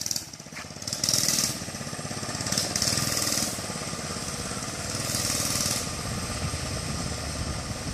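Mini bike's small engine running with a rapid, even putter, getting louder about a second in. Three short bursts of hiss sound over it.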